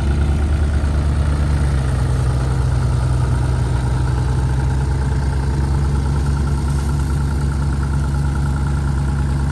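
An engine idling steadily close by, its pitch stepping up slightly about two seconds in.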